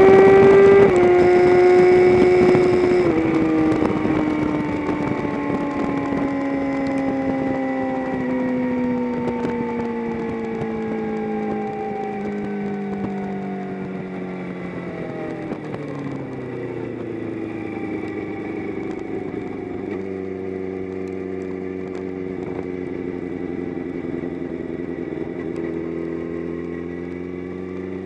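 Engine of a track vehicle stepping down through a couple of downshifts, then its pitch falling steadily as it slows off the pace, settling about two-thirds of the way in to a low, steady idle.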